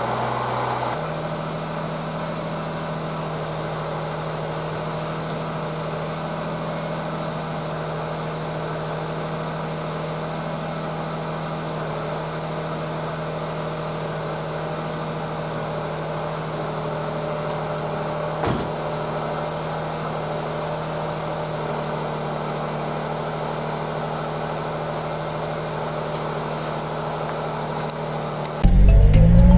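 Honda Beat's three-cylinder engine running at a steady speed, its hum holding one pitch after a brief change in the first second. A loud sound starts suddenly near the end.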